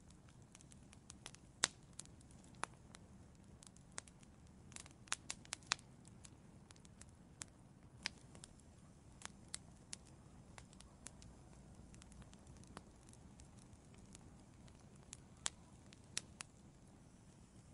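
Wood fire in an outdoor fireplace crackling: sharp irregular pops and snaps, a quick cluster of them about five seconds in, over a faint low rumble of the flames.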